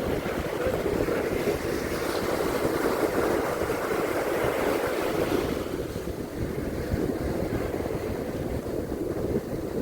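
Sea waves washing onto a beach, with wind buffeting the microphone. One wash swells louder through the first half and then eases off.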